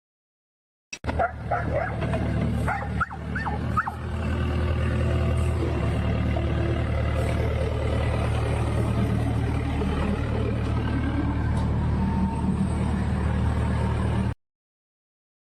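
A motor running steadily, with a dog yelping several times in the first few seconds.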